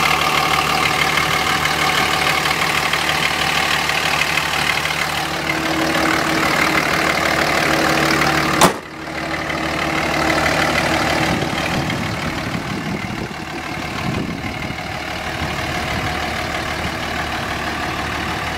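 Dodge Ram's 5.9-litre Cummins inline-six turbo diesel idling steadily. A single sharp knock comes about nine seconds in, after which the engine sounds duller.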